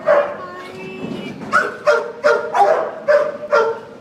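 Puppies barking: a run of short, high yips in quick succession, most of them bunched in the last two seconds.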